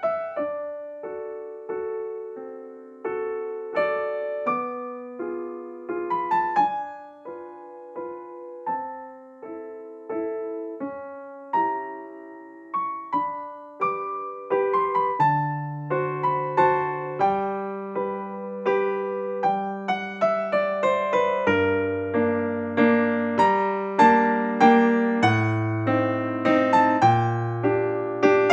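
Background piano music: a gentle melody of single struck notes, with deeper bass notes joining about halfway through.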